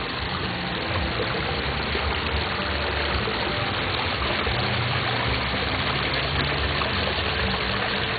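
Small garden waterfall: water splashing and trickling steadily.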